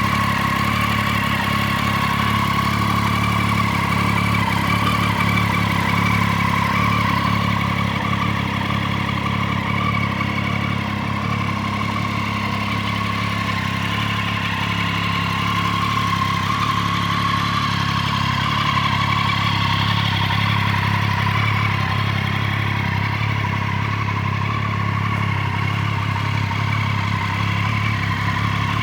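Triumph Street Triple 675R's 675 cc inline three-cylinder engine idling steadily, with no revs.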